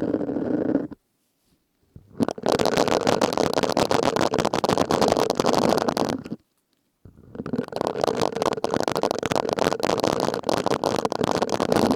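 Silicone sponge rubbed and squeezed against the microphone, giving dense squishy, crackling rubbing in three bouts with short silent pauses: a brief one ending about a second in, then two longer ones of about four and five seconds.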